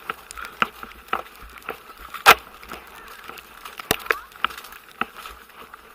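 Horse walking at a calm pace, with irregular hoof knocks and clicks of tack, one much louder knock about two seconds in.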